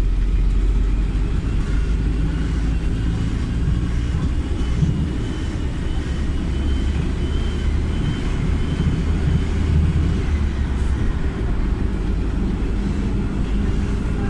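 Interior noise of a PAZ 320414-04 Vector city bus under way: its YaMZ-53423 compressed-natural-gas engine and drivetrain make a steady low rumble, with a faint high-pitched whine over it through the middle.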